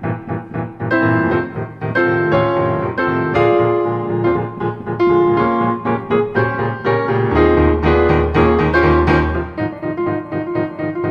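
Solo piano music: a busy run of struck notes and chords, with a low bass rumble added for a couple of seconds past the middle.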